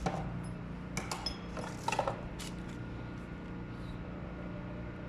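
A few sharp metallic clinks and knocks as metal parts are handled and fitted together, the loudest about two seconds in, over a steady electrical hum.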